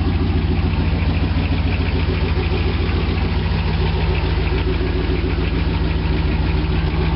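1989 Chevrolet Silverado K1500's throttle-body-injected small-block V8 idling steadily on a cold morning, still warming up after a cold start.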